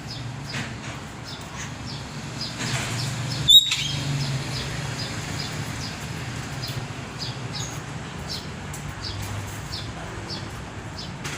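Caged songbird chirping in a steady series of short, high, falling chirps, about two a second, with one louder sharp, whistled call about three and a half seconds in.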